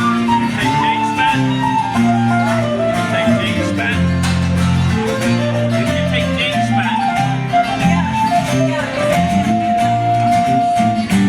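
Folk band playing an instrumental passage: an ornamented lead melody over strummed guitar chords.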